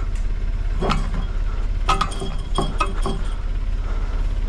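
Metal clinks and taps of a wrench and bolts on a steel deer-stand frame, about five sharp ones between one and three seconds in, one ringing briefly, over a steady low engine hum.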